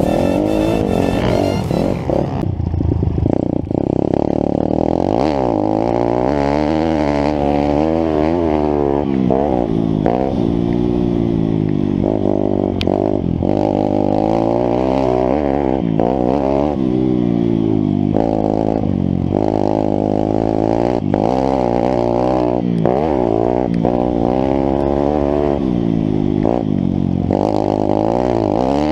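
YCF SP3 pit bike's single-cylinder four-stroke engine being ridden hard, its revs climbing and dropping again every second or two as the throttle is worked. Music fades out in the first couple of seconds.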